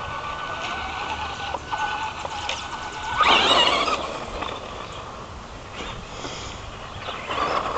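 Traxxas Slash RC truck's electric motor and drivetrain whining as it drives around and speeds past, loudest a little over three seconds in, with a second, smaller pass near the end.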